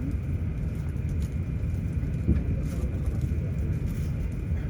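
Steady low rumble of an Airbus A350-900's cabin on the ground, with a faint steady high whine over it and faint passenger voices.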